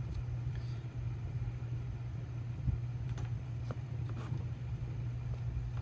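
Steady low background hum, like a fan or appliance, with a few faint light clicks and rustles from handling small craft items near the middle.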